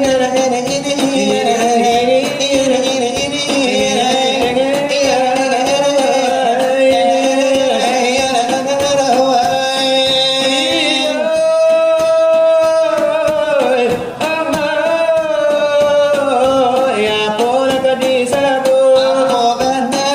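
Salawat dulang: a man chanting a melismatic devotional song over quick finger-tapping on a brass tray (dulang). About halfway through he holds one long note.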